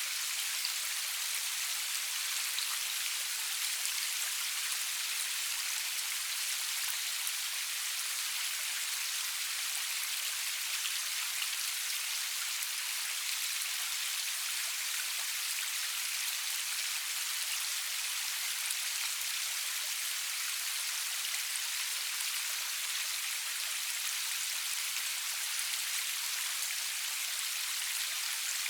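Rain falling steadily, an even hiss with faint scattered drop ticks, without thunder or music.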